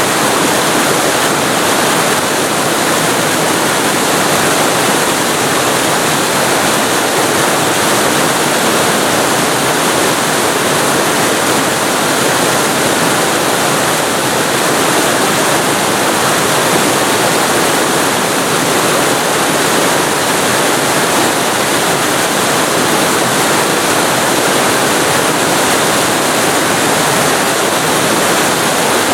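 Waterfall recorded very close to the falling water: a loud, steady rush of water.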